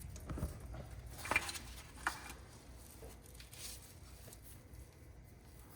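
Faint handling noises of hands and tools at work on a small inline fuel filter and its fuel line: quiet rustling with a few sharp clicks, two of them clearer about a second and a half and two seconds in.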